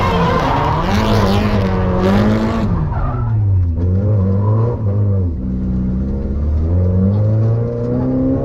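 Turbocharged Nissan Silvia S15 drift car heard from inside the cabin, its engine revving up and down while the tyres hiss and squeal in a drift. About a third of the way in the tyre noise stops and the engine note drops, then climbs again near the end.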